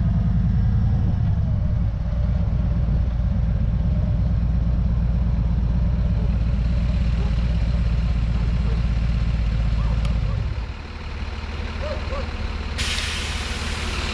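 Vehicle engine running with a heavy low rumble, dropping to a quieter idle a little past ten seconds in. Near the end a loud hiss of air starts suddenly.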